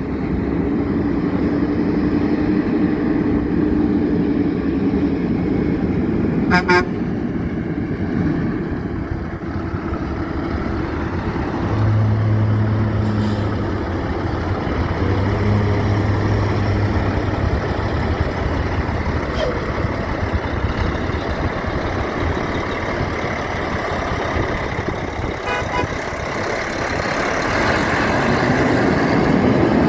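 Heavy trucks driving past on a road: continuous engine and tyre noise that swells and fades as vehicles go by, growing louder near the end.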